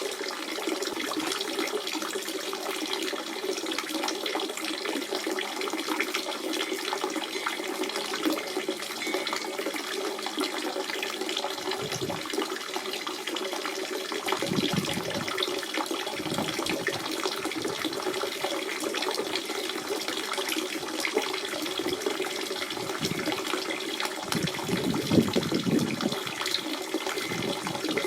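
Spring water running and splashing in a steady rush, with brief deeper gurgles now and then, the strongest about three-quarters of the way through.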